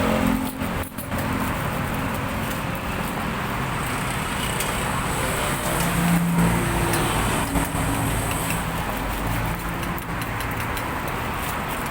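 Steady road traffic noise with no distinct single event.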